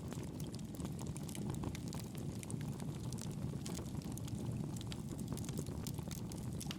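Campfire burning, with many small irregular crackles and pops over a steady low rumble of the flames.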